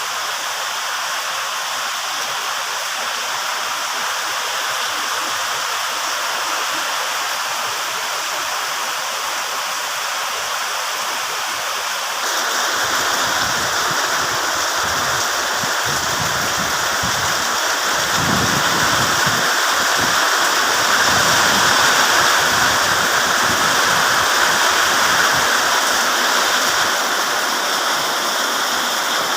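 Heavy rain pouring down in a steady rush, with strong wind. About twelve seconds in, the downpour gets louder and deeper, with gusty low rumbling that is strongest a little past the middle.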